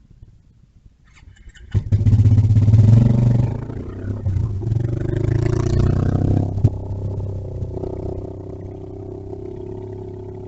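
Small motorbike engine, likely a mini bike, comes in suddenly and loud about two seconds in as it passes close, then settles into a lower, steadier running sound.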